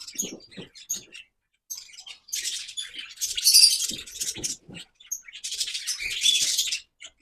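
Small aviary birds chirping and chattering in bursts, with a few short high chirps and some light knocks.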